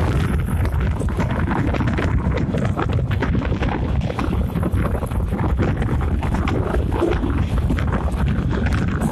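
Loud, steady wind buffeting the microphone over the dense rattle and clatter of a moving passenger train, heard from an open carriage window.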